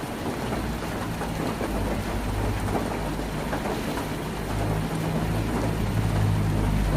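Heavy rain falling on a tin roof, a dense steady patter of drops, with a low rumble that builds through the second half.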